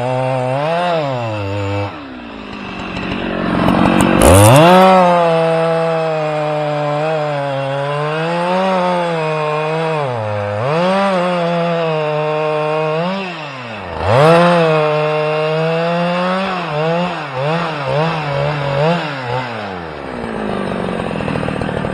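A small engine running and being revved, its pitch rising and falling again and again, with two sharp climbs from low revs: one about three seconds in and one about two-thirds of the way through.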